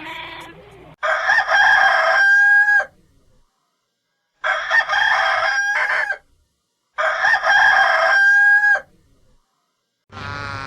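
A rooster crowing three times, each crow about two seconds long, a choppy start ending in a long held note, with a short silence between crows.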